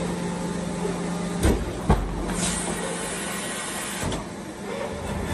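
Steady hum of the Airbus A320's hydraulic system powered on the ground for a landing gear retraction test. Two heavy clunks about a second and a half in, typical of landing gear doors or locks moving, are followed by a hiss.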